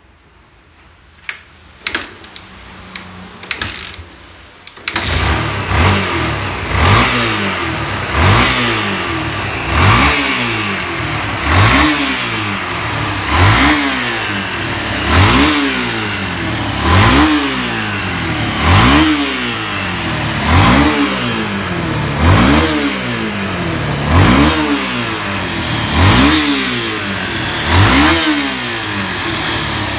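Yamaha XT250T single-cylinder four-stroke motorcycle engine. A few clicks and knocks come first, then the engine starts about five seconds in. It is then blipped over and over, revving up and dropping back about every two seconds, about fourteen times, and settles to idle at the end.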